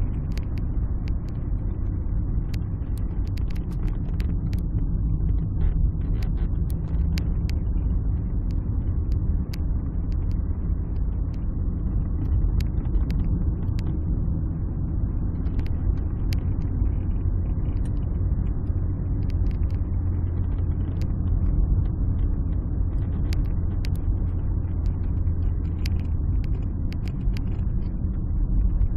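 Alfa Romeo 156 being driven, heard from inside the cabin: a steady low rumble of engine and road noise, with scattered light clicks and ticks.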